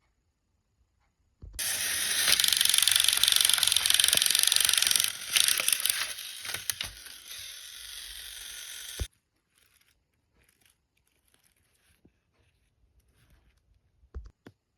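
A loud rushing hiss that starts abruptly about a second and a half in and cuts off suddenly after about seven and a half seconds, followed by faint scattered clicks.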